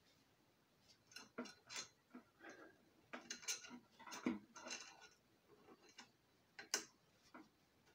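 Faint, irregular clicks and light metallic taps of screws and tools being handled while a compressor is reassembled, with a sharper click near the end.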